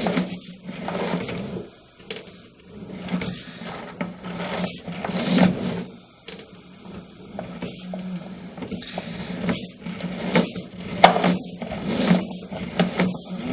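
Irregular knocks, clatters and scraping from plumbing work at a restroom sink's drain, over a steady low hum.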